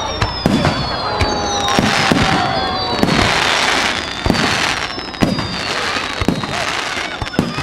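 Fireworks going off in quick succession: many sharp bangs and pops, several long whistles that slowly fall in pitch, and a dense crackling hiss about three seconds in.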